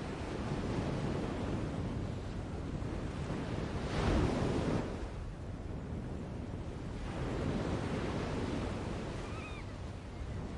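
Nature ambience: a dense rushing wash like wind or surf that swells and ebbs, with a louder surge about four seconds in. A faint bird call sounds briefly near the end.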